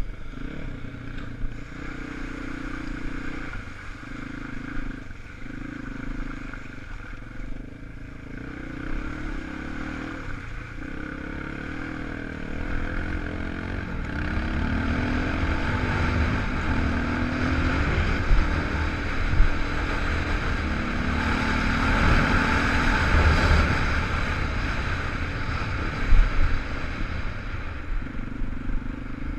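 250 cc enduro motorcycle engine running and revving, its pitch rising in several pulls. It grows louder about halfway through, with a few sharp clattering knocks.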